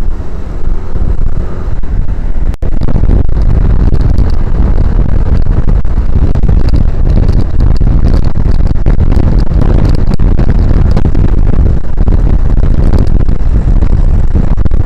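Motorcycle riding noise through an action camera's microphone: heavy wind rush with engine and road noise, loud and steady, with a brief dropout about two and a half seconds in.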